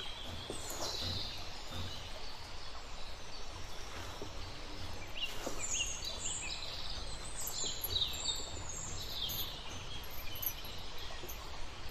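Birds chirping outdoors in short, repeated falling calls over a steady low background rumble.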